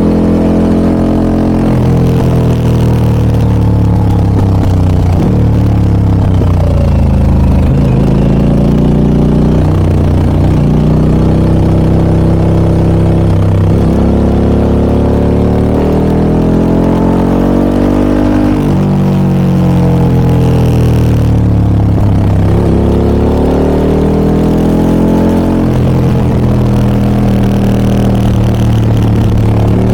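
Harley-Davidson Pan America 1250 Special's Revolution Max V-twin through a Scorpion aftermarket muffler while riding, the exhaust note rising and falling over and over as the rider accelerates and shifts or backs off. There is one long climb in pitch that drops off sharply about two thirds of the way through.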